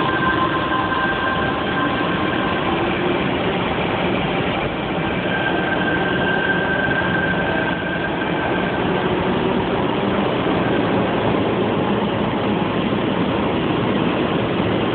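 Tangara electric train pulling out of an underground station and passing close by, a steady rumble of wheels and running gear with faint whining tones over it.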